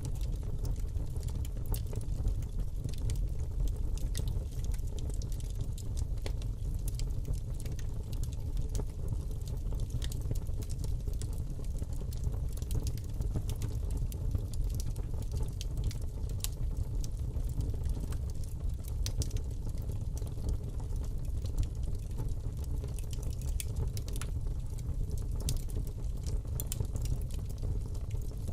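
Fire burning in a fireplace: a steady low rumble of the flames with many scattered sharp crackles and pops.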